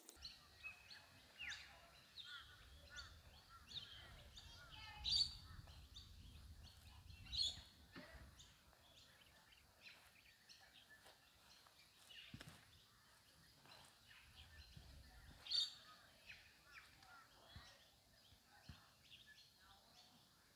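Faint birdsong: scattered short chirps and calls, with a few louder calls about five, seven and fifteen seconds in.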